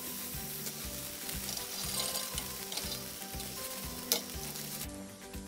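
Butter and an aloo paratha sizzling in a hot frying pan: a steady frying hiss that stops near the end, with a sharp click about four seconds in.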